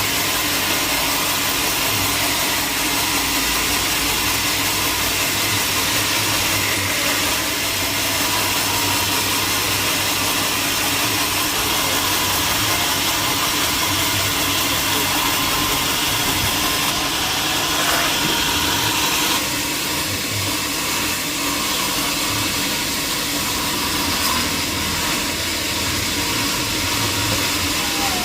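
Sawmill machinery running with a steady, loud whirring noise that shifts slightly about two-thirds of the way through.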